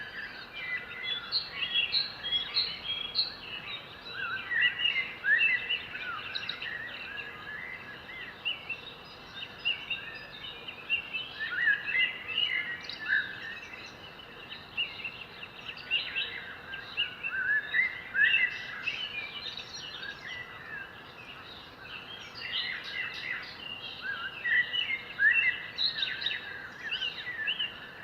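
Several birds chirping and singing together: busy clusters of short, high chirps and whistles, over a steady background hiss.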